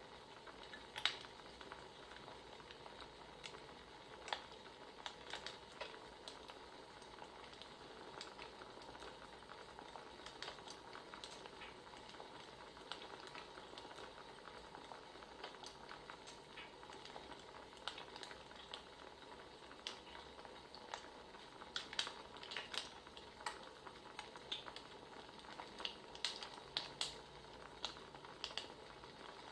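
Wood fire crackling, with irregular small pops and snaps over a faint steady hiss, the pops coming more often near the end.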